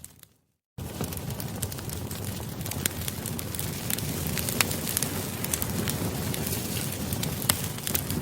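Campfire crackling: a steady low rush of burning wood with frequent sharp pops and snaps. The sound fades away to silence just after the start, then starts again suddenly a little under a second in.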